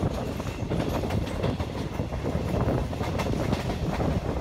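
Regional passenger train running along the track: a steady rolling rumble with irregular clicks and clatter as the wheels pass over rail joints and switches.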